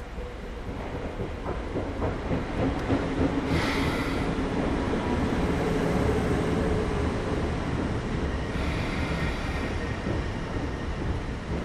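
A train on rails, growing louder over the first several seconds, with a hum and a short high squeal about four seconds in and again near nine.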